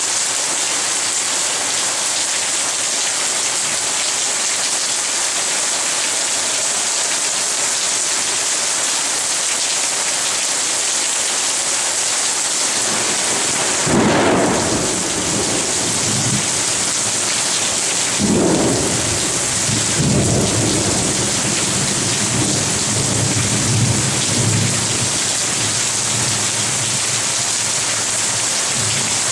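Steady, heavy rain hissing down during a thunderstorm. About halfway through, thunder rumbles in, then comes twice more a few seconds apart, with low rolling rumbles continuing for several seconds over the rain.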